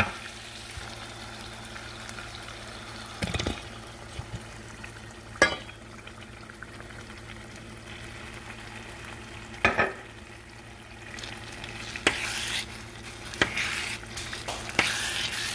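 Seasoned ground beef sizzling in a stainless steel saucepan, with a few sharp knocks against the pan. Chunky salsa goes into the pan and is stirred in with a slotted spatula, and the sizzle and stirring get louder in the last few seconds.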